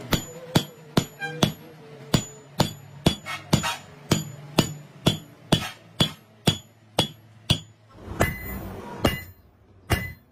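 Hammer striking metal in a steady run of blows, about two a second, each ringing briefly. The run breaks up near the end, with a last couple of spaced blows.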